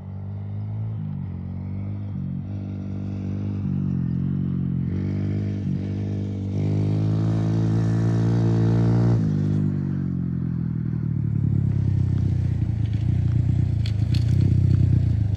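Small semi-automatic dirt bike engine being ridden, revving up in steps that break and drop back in pitch, typical of shifting up through the gears without a clutch. It holds a high rev for a couple of seconds, backs off about nine seconds in, and then runs lower and rougher as it grows louder.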